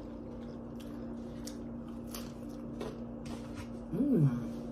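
Close-miked eating of crunchy breaded shrimp: scattered wet crunches and mouth clicks while chewing, over a steady low hum. About four seconds in comes a short closed-mouth "mmm" that rises and falls in pitch.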